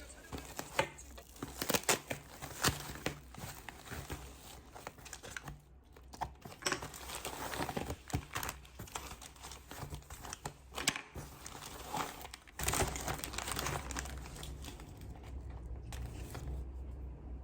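Packaging being handled: irregular crinkling and rustling with sharp crackles, over a faint low hum.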